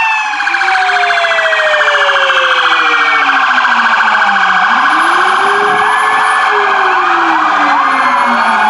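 Several emergency-vehicle sirens sounding at once: slow wails sweep down and rise again in pitch, over a fast electronic warble. Near the end, quick repeated rising yelps come in.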